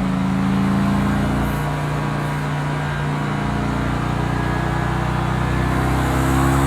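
Mercedes-AMG GT S 4.0-litre twin-turbo V8 running at a steady, moderate engine speed while the car is driven, its pitch drifting only slightly.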